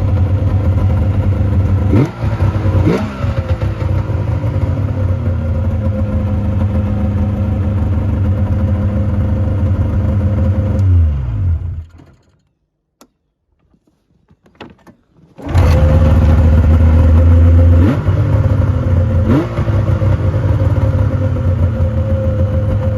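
Yamaha V-Max triple snowmobile's three-cylinder two-stroke engine idling, blipped twice about two and three seconds in. About eleven seconds in it winds down and stops; after a few seconds of near silence with a few clicks it starts again, idles, and is blipped twice more.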